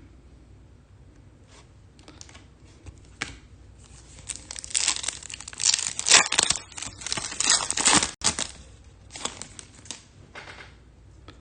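Foil trading-card pack wrapper being torn open and crinkled, in a run of crackly rustling bursts starting about four seconds in and easing off near the end, after a few soft clicks.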